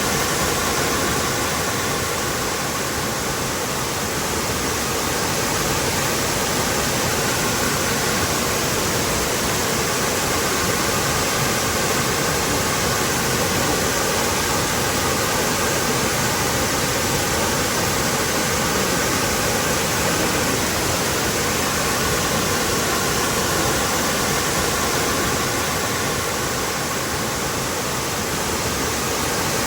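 Waterfall rushing: a steady, dense roar of falling water that holds an even level throughout.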